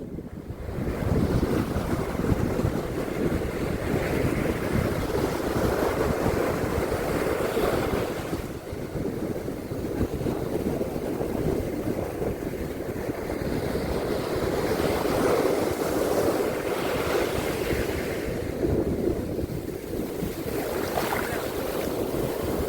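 Ocean surf washing onto a beach: a continuous rush of breaking waves that swells and eases every few seconds, with wind rumbling on the microphone.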